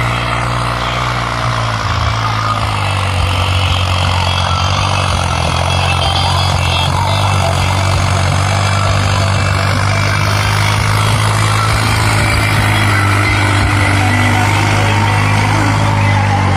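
New Holland 3630 tractor's diesel engine running steadily and loud, likely working a cultivator, its pitch dropping slightly about two to three seconds in and then holding.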